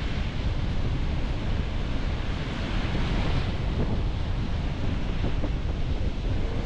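Sea waves washing onto the beach, one surge swelling about three seconds in, with wind buffeting the microphone in a steady low rumble.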